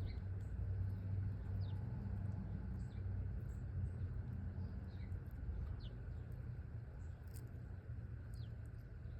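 Small songbirds giving scattered short, high chirps, each a quick falling note, over a steady low rumble.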